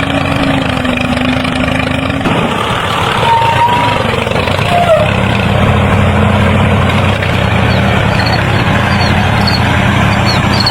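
An engine running steadily with a constant low hum that shifts in tone about two seconds in.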